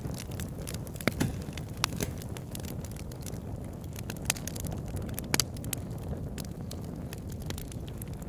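Wood fire burning in a fireplace, crackling with irregular sharp pops over a low, steady rumble of the flames; a few pops stand out louder, about a second in, near two seconds, and around four and five seconds in.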